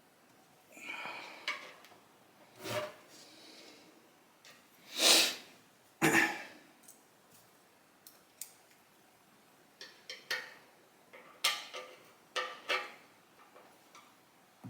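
Small metal parts and hand tools being handled on a workbench: scattered light clicks, taps and scrapes, clustered near the end. There are a few breathy blows or sniffs close to the microphone, the loudest about five seconds in.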